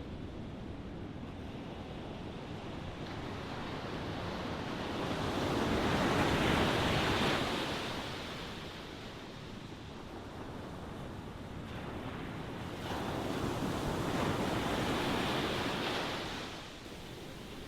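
Ocean waves washing onto a shore: a steady surf with two waves swelling and breaking, one about six seconds in and another about thirteen to sixteen seconds in.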